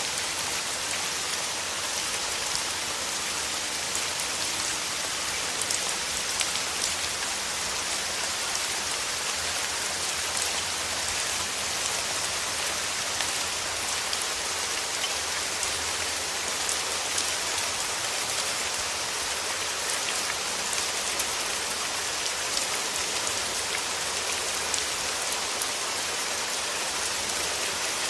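Steady rain: an even hiss of falling drops with faint scattered individual drop ticks.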